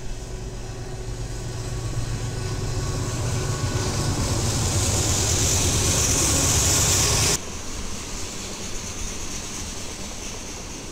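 A train passing close by, its rumble and hiss building for about seven seconds and then cutting off suddenly, leaving a quieter steady noise.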